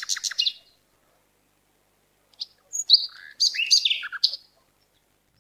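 Bird chirping: a quick run of high chirps at the start, then after a pause a longer run of chirps and short whistles from about two and a half seconds in until about four and a half seconds.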